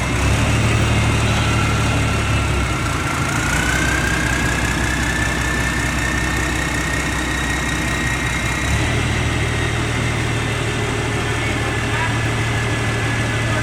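Engine of a forage-corn harvesting machine running steadily, its speed shifting twice, once a few seconds in and once near two-thirds through. A high whine rises in pitch a few seconds in and then holds steady.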